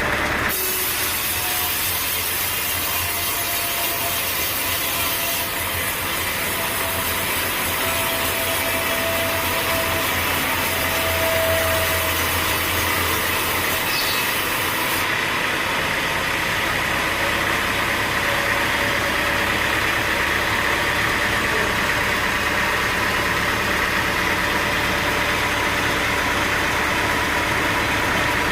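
Sawmill saw cutting through a large log over a steady engine drone, with a faint whine in the first half; the sound shifts abruptly a few times.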